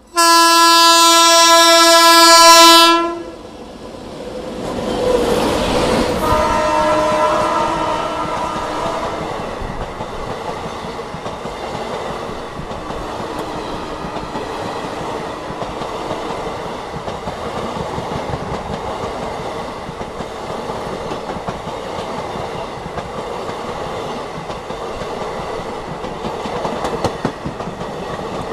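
Indian Railways electric locomotive sounding a loud horn blast of about three seconds, then a rush as it passes close by, then a second, quieter horn note. Its passenger coaches then roll past with a steady rumble and clickety-clack of wheels over rail joints.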